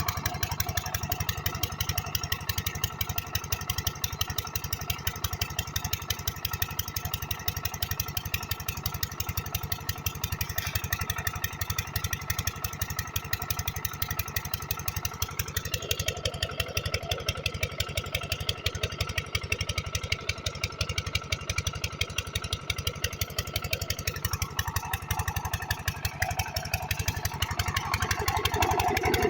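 Kranti diesel water-pump engine running steadily with a rapid, even beat of firing strokes. It gets louder near the end.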